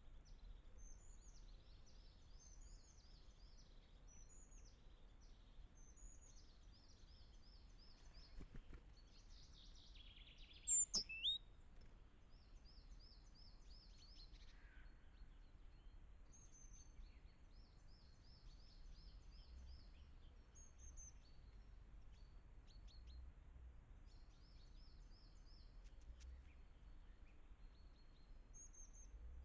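Small forest songbirds calling: short series of thin, high chirps repeated again and again over a faint low background rumble, with one louder, closer burst of calls and a click about eleven seconds in.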